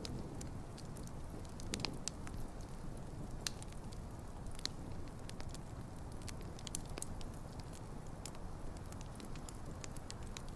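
Campfire of burning wood logs: a steady low rush of flames with frequent irregular sharp crackles and pops.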